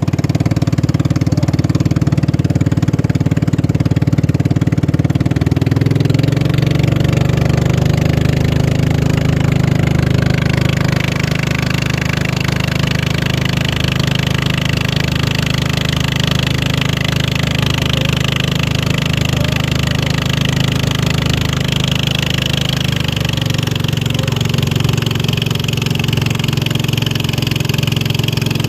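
Racing boat's engine running steadily, its pitch shifting about six seconds in and again near the end, with a hiss building above it from about halfway through.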